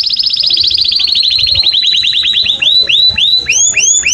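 Canary singing a fast, high trill of repeated notes that slows through the passage, ending in a few separate notes that each sweep downward.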